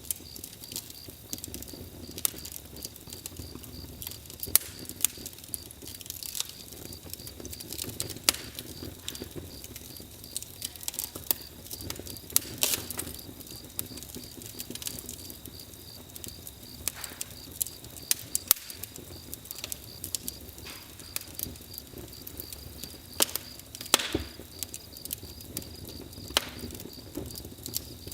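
Campfire crackling, with irregular sharp pops scattered throughout, over a continuous high cricket chirping.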